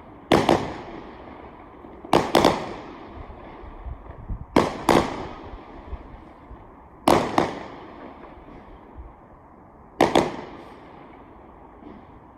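Fireworks exploding: sharp bangs, mostly in close pairs, about every two and a half seconds, each trailing off in an echoing rumble.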